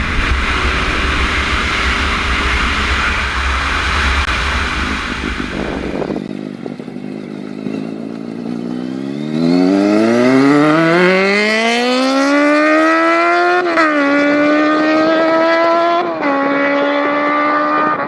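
Sportbike engine accelerating hard, its pitch rising in one long climb, then dropping sharply at two upshifts and climbing on again. Before that, a few seconds of steady rushing noise with a low rumble.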